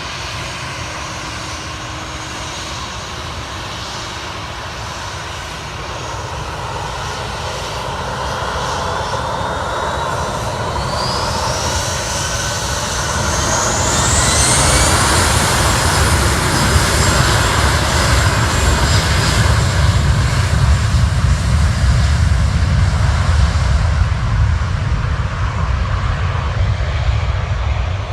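Aircraft engines as a plane passes. The sound grows louder over the first half, with a whine that rises in pitch around the middle, then settles into a loud, steady rumble.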